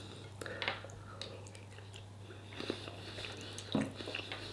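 A man chewing a mouthful of food, quietly, with a few light clicks of a fork and spoon against a bowl.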